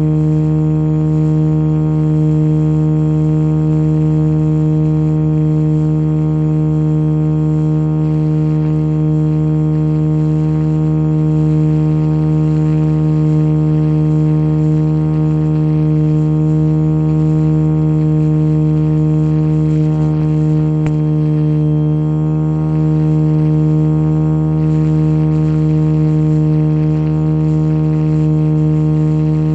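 Radio-controlled model helicopter running at a constant head speed, a steady buzzing drone of the rotor and electric motor. The pitch holds level throughout except for a short dip about two-thirds of the way in.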